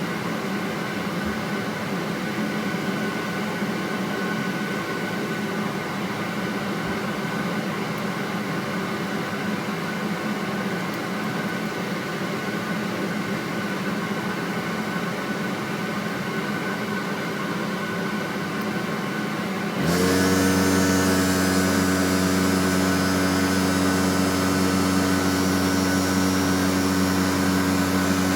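A small motor whirring steadily. About twenty seconds in, it changes suddenly to a louder, deeper hum that rises briefly in pitch as it starts and then holds steady.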